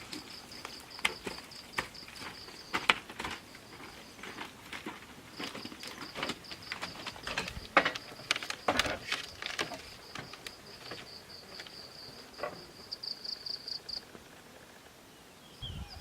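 An insect trilling in a rapid, even, high-pitched pulse that stops near the end, over scattered sharp knocks and taps.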